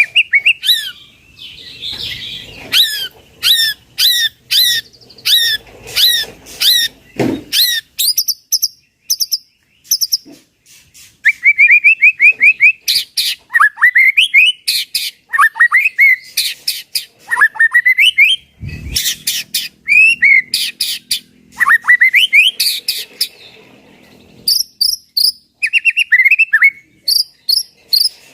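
Captive-bred white-rumped shama (murai batu) singing loudly: a varied song of repeated rising and falling whistles, quick runs of high chips and sweeping glides, one phrase after another with only short pauses.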